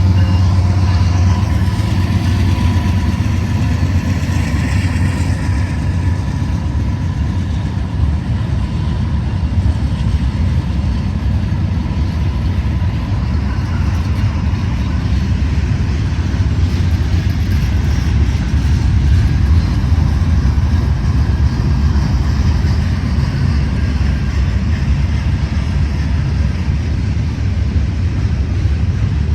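Manifest freight train passing below, a steady heavy rumble of diesel locomotive and rolling cars. A thin high tone sounds for the first several seconds, then fades.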